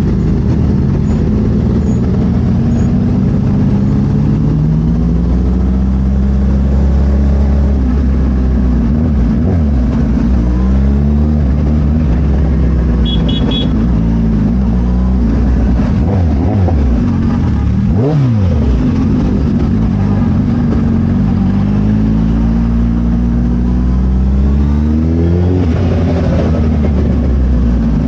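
Suzuki Hayabusa inline-four engine through a Brocks carbon full exhaust, under way and pulling up through the revs several times, with the pitch rising and dropping between pulls.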